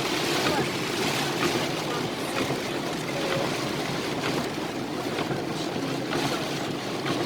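Heavy rain pelting the roof and windshield of a moving car, heard from inside the cabin as a steady hiss mixed with road and water noise.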